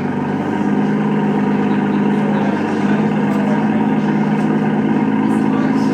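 Aston Martin Vanquish V12 idling steadily just after start-up.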